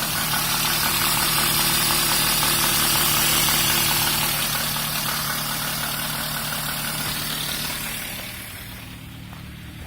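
Renault Twingo's D7F 1.2-litre four-cylinder petrol engine idling cold, with the irregular idle its owner is chasing. The sound quietens from about eight seconds in.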